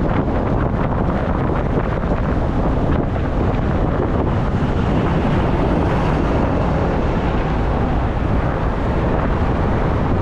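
Wind buffeting the microphone of a camera riding on a moving e-bike: a loud, steady rumbling rush with no distinct events.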